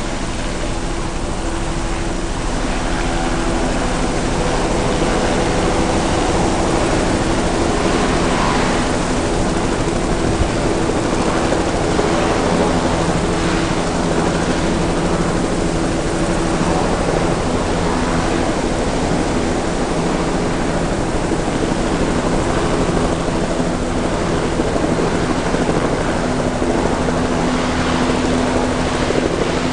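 Aircraft engines running steadily and loudly, a rushing noise with a few droning hums that shift slightly in pitch.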